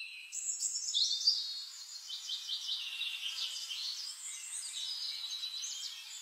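Small birds chirping and twittering together, a dense overlapping run of short high calls with a few quick trills.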